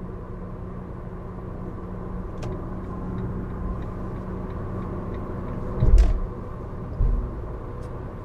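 Steady road and engine rumble heard inside the cab of a Fiat Qubo van at speed on the motorway, mostly tyre noise, with two short dull thumps about six and seven seconds in.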